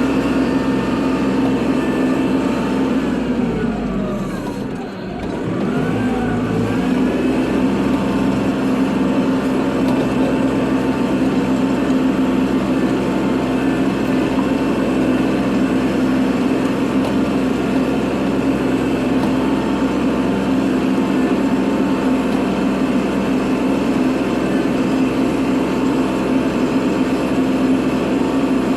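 Kubota tractor's diesel engine running steadily under throttle while plowing snow. Its revs drop briefly about five seconds in and climb back, then it holds a steady pitch.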